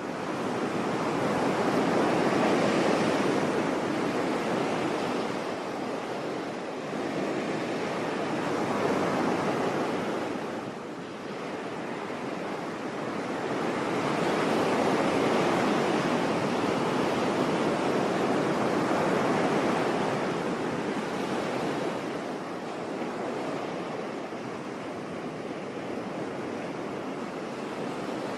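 Sea surf washing onto a shore: a continuous rush of breaking waves that swells and ebbs over several seconds, with a brief lull about eleven seconds in.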